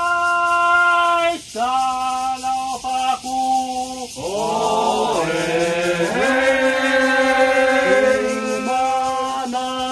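Bunun traditional chant sung unaccompanied, with long held notes. A single voice begins, and several voices join in overlapping harmony about four seconds in.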